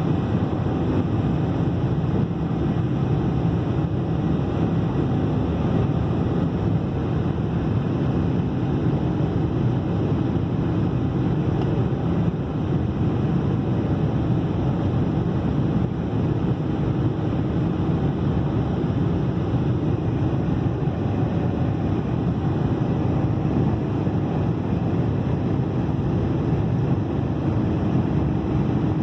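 Steady jet airliner cabin noise: engine and airflow sound heard from inside the passenger cabin, an even low-pitched rush that holds level throughout.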